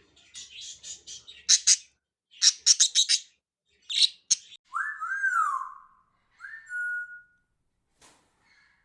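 Budgerigars chirping in quick clusters of bright calls, then giving clear whistles that rise and fall in pitch.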